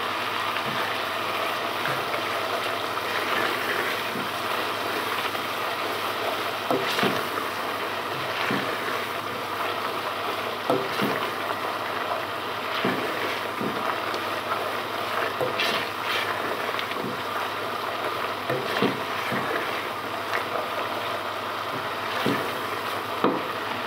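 Onion-tomato masala with chili powder frying in a pot, a steady sizzle, with scattered knocks and scrapes of a plastic spoon stirring it against the pot.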